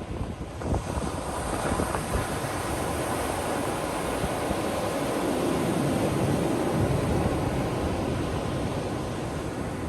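Ocean surf breaking and washing up a beach: a steady rush of waves that swells about a second in and then holds.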